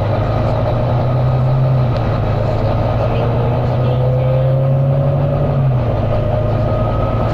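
Volvo B9TL double-decker bus engine pulling hard, a steady loud drone whose note shifts twice, with a thin whine rising in pitch through the middle as the bus accelerates.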